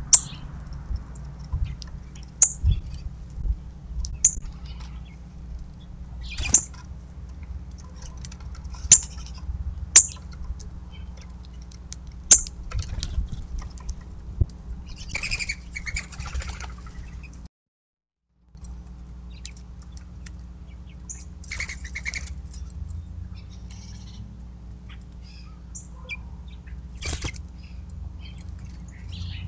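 Small birds chirping: short, high, sharp notes every second or two, with a couple of longer, fuller calls partway through, over a steady low background rumble. The sound cuts out completely for about a second midway.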